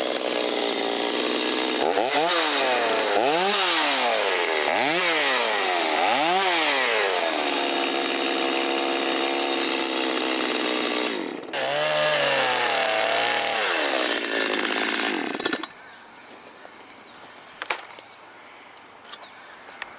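Stihl 025 two-stroke chainsaw running in a cut. Its engine speed dips and recovers four times as the chain bogs in hard wood, then it runs steadily, wavers again, and stops abruptly a few seconds before the end. This is a high-revving, low-torque saw that slows easily in a hard cut.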